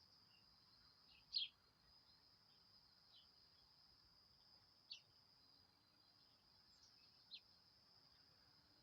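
Faint steady high-pitched insect trill, like crickets, with a few short bird chirps over it: the loudest about a second and a half in, others near five and seven seconds.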